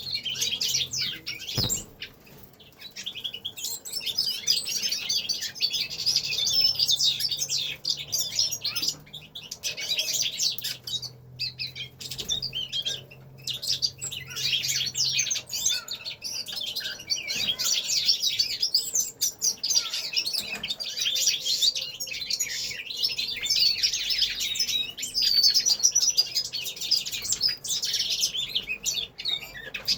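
Several caged finches singing and twittering together in a dense, continuous chorus of high chirps and trills, with short lulls near the start and around the middle.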